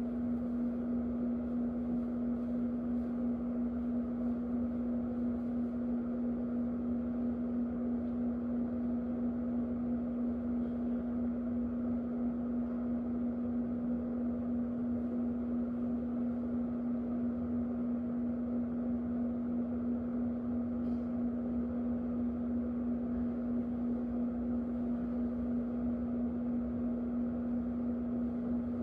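Electric fan running steadily: an even rush of air with a strong, constant hum from its motor.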